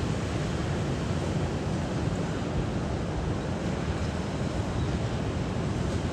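Steady rush of moving water, mixed with wind buffeting the microphone.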